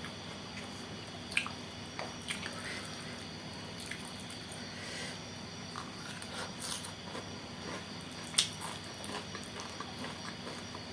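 Close-up mouth sounds of eating soupy noodles topped with bean sprouts: wet chewing and smacking, with short sharp clicks now and then, the loudest about eight seconds in, over a faint steady hum.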